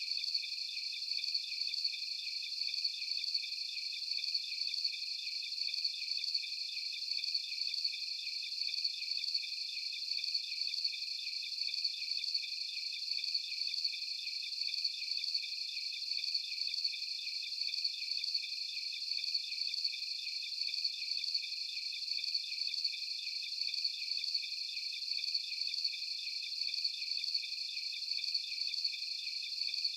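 A chorus of crickets chirping steadily at several high pitches at once, a fast, unbroken pulsing with no low sounds beneath it.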